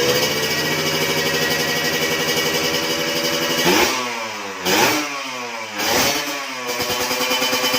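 Kawasaki Ninja motorcycle on an aftermarket racing exhaust idling, then revved in three quick throttle blips about a second apart. Each blip rises sharply and falls back, and the engine settles back to idle near the end.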